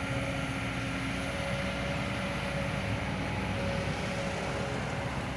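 Kobelco SK200 Super X excavator's diesel engine running steadily, with a faint held tone above it.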